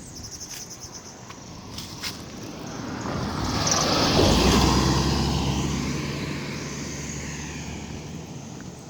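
A motor vehicle driving past close by on the road: its engine and tyre noise swell to a peak about four seconds in, then fade away slowly as it goes.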